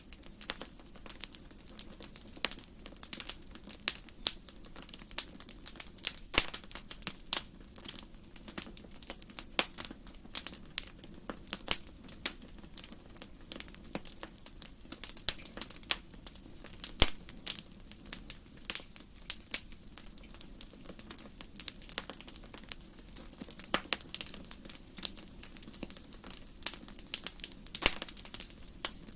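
Wood fire burning in a fireplace, crackling and popping irregularly over a low steady rumble of flame.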